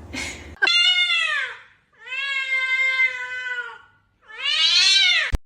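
A cat meowing three times: a short falling meow, a long drawn-out one, then another short one. A sharp click comes near the end.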